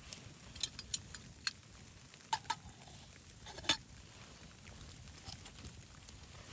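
Irregular light clicks and taps, a few sharper ones about one, two and a half, and nearly four seconds in, over a faint steady hiss.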